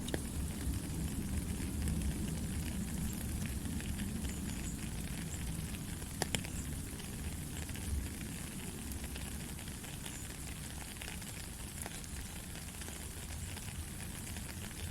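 Steady rainfall, a constant hiss with a low rumble underneath and a few sharper drop clicks now and then.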